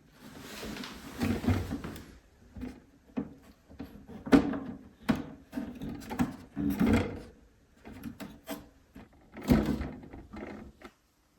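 Irregular knocks, clicks and scraping as parts of a toilet flush tank are handled and fitted, with a sharp knock about four seconds in and another near the end.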